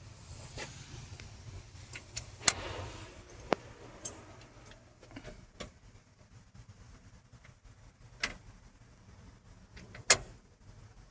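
Scattered sharp clicks and knocks, about six, from hands working on a vehicle's interior light wiring and fittings, with a short rustle after the first loud click.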